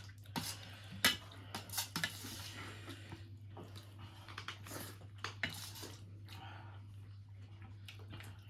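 Spoons and plates clinking and scraping in irregular knocks as food is served and eaten, over a steady low hum.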